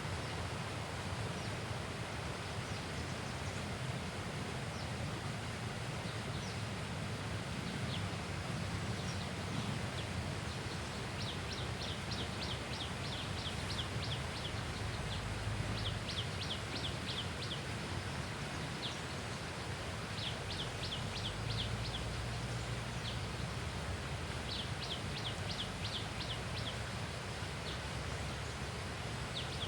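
Steady rushing outdoor background noise, with a bird repeating a quick run of six to eight high, falling notes every few seconds.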